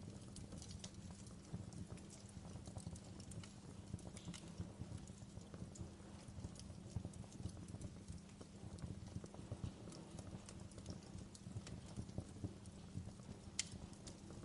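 Wood fire crackling in a fireplace: a steady low rumble of the burning fire with frequent small pops and snaps, and one sharper pop near the end.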